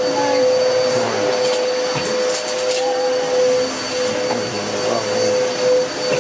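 A steady mechanical drone: a constant-pitched hum over a rushing noise.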